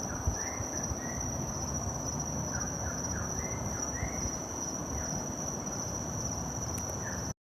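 Night insects, crickets by the sound, trilling in one steady high tone, with scattered short chirps and a low rumbling hiss underneath. It all cuts off suddenly at the very end.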